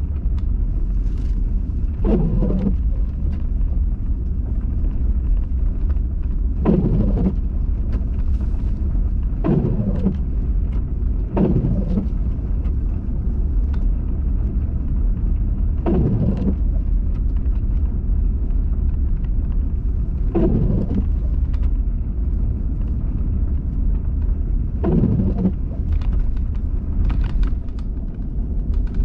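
Low, steady rumble of a car's cabin while driving slowly through a snowstorm, with a windshield wiper stroke about every four to five seconds.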